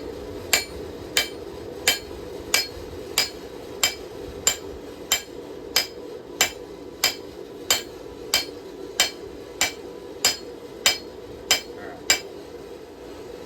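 Hand hammer striking hot steel on an anvil in an even rhythm, about three blows every two seconds, each with a short metallic ring. About nineteen blows, stopping about a second before the end, over a steady low hum.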